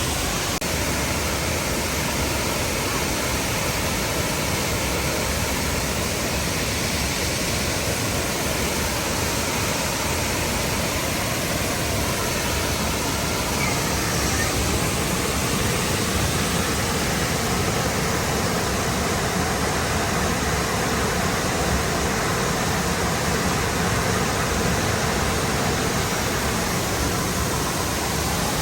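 Waterfall, a steady even rush of falling and splashing water.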